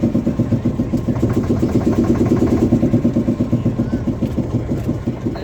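Motor boat's engine running steadily, with a fast, even chugging beat.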